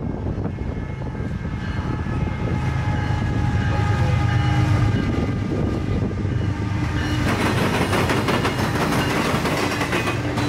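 Freight train's diesel locomotives approaching: a low engine rumble builds to its loudest about four to five seconds in, with steady tones ringing above it. From about seven seconds in the lead locomotives pass close by and the steel wheels set up a dense, rapid clatter over the track.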